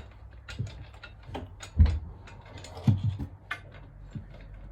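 Irregular clicks and knocks of marimba frame parts and fittings being handled during assembly, with two heavier thumps about two and three seconds in.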